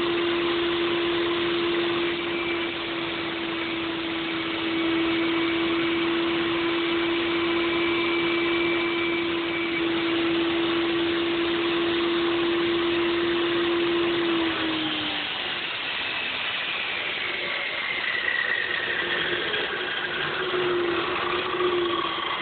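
Table saw running with a steady hum while ripping 1-inch styrofoam sheets into bands. About fifteen seconds in its tone drops away, and a whine falls in pitch as the blade coasts down.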